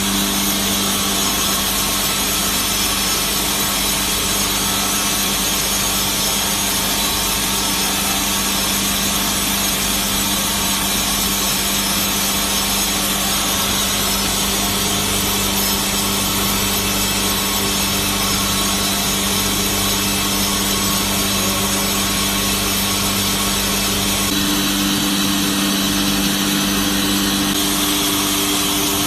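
Vacuum-suction gantry horizontal band saw running: a steady, loud machine noise over a low hum. About 24 seconds in, a higher hum tone comes in, and a few seconds later the lower hum stops.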